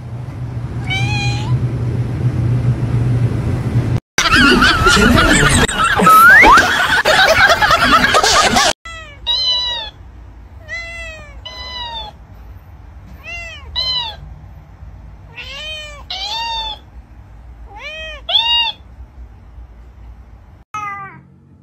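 A domestic cat meowing again and again in short rising-and-falling calls, often two in quick succession. Before that comes a loud, dense stretch of noisy sound lasting a few seconds.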